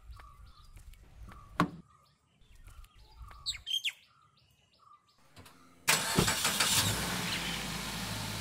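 A small bird chirping over and over, with a sharp click about a second and a half in. About six seconds in, a car engine starts suddenly and keeps running.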